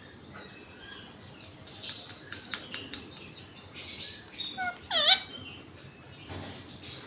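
Indian ringneck parrot making short chirps and clicks, then a loud whistled call about five seconds in that dips and rises in pitch.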